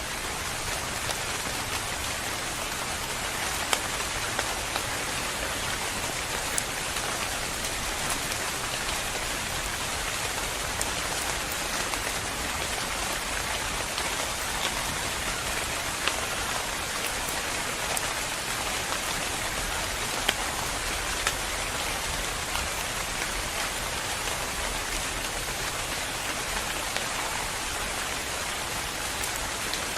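Steady rain falling, a dense even hiss with scattered sharper drops hitting a surface here and there.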